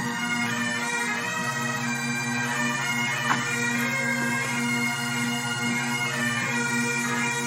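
Bagpipe music: steady low drones beneath a chanter melody.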